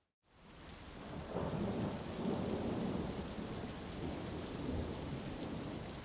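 Heavy rain hissing with a rolling rumble of thunder that swells about a second in and keeps rumbling. The sound fades in from a brief silence at the start.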